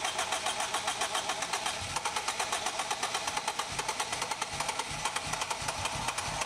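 Starter motor cranking the freshly built turbocharged Honda K20 four-cylinder over in an even, rapid pulsing rhythm, during its first start after the build.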